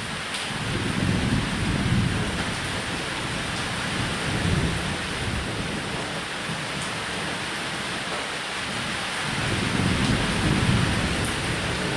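Steady rain falling on a roof, with low rolling thunder that swells about a second in, again around four seconds, and more strongly from about nine seconds.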